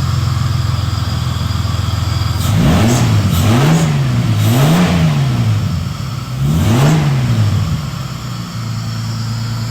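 Freshly swapped Ford Falcon engine, just started and running without its air filter, idling and then revved three times in quick succession before settling back to a steady idle.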